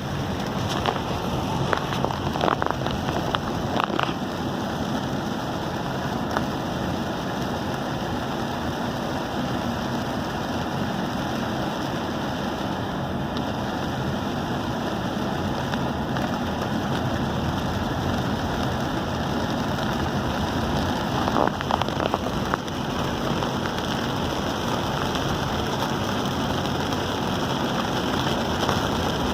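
Heavy rain pelting a moving car, a steady dense hiss of rain and wet road, with a few brief sharp knocks in the first few seconds and again about two thirds of the way through.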